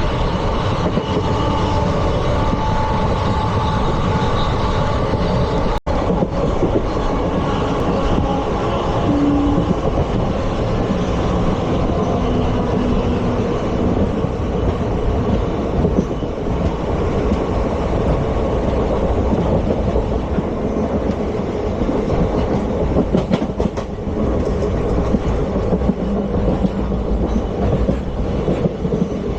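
ICF passenger coaches running on track: a steady rumble of wheels on rail with clickety-clack from the rail joints. The sound drops out for an instant about six seconds in.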